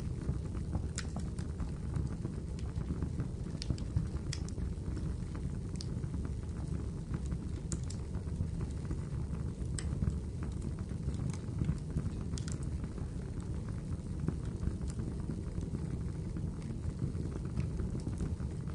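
Wood fire burning in a fireplace: a steady low rush with scattered sharp crackles and pops.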